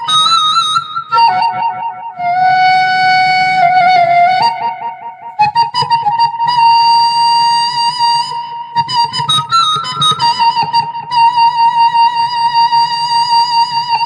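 Sundanese suling bamboo flute playing a slow melody of long held notes with a slight vibrato, over rapidly plucked kecapi zither strings, in kecapi suling style.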